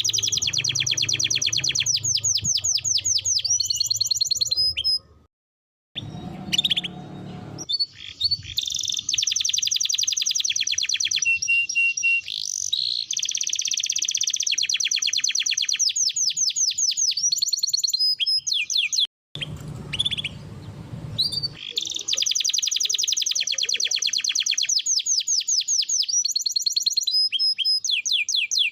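A domestic canary singing long, fast rolling trills in phrases with short pauses. The song cuts out abruptly about five seconds in and again for a moment around two-thirds of the way through.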